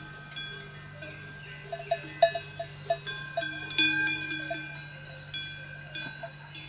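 Metal bells clanking irregularly, each strike ringing on in long overlapping tones, with a cluster of louder strikes partway through.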